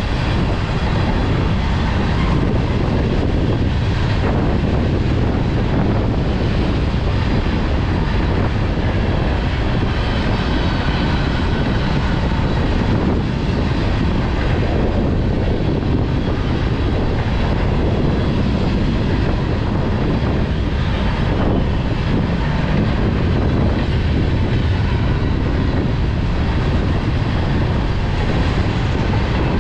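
Freight train rolling past: the loud, steady noise of the cars' wheels running on the rails, unbroken throughout.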